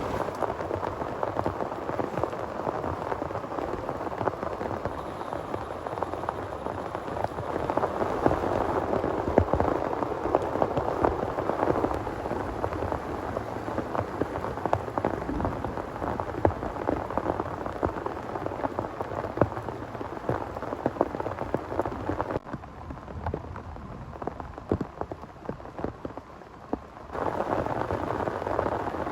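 Heavy rain falling steadily, a dense hiss full of individual drop hits. About three quarters of the way through it turns quieter and duller for roughly five seconds, then comes back at full strength.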